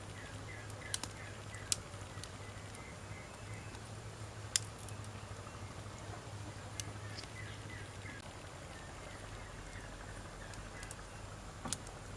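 Wood fire crackling, with a handful of sharp pops and snaps from the burning logs over a steady low background.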